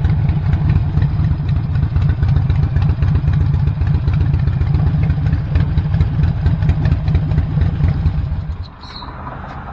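Harley-Davidson Sportster Roadster's air-cooled 1200 cc V-twin with stage 1 intake and exhaust, idling with a loud, lumpy low beat. The engine sound stops sharply near the end.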